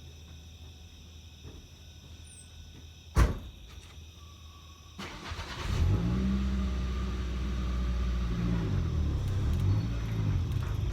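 A single sharp slam about three seconds in, then a vehicle engine starts about five seconds in and runs, its pitch rising and falling as it drives off.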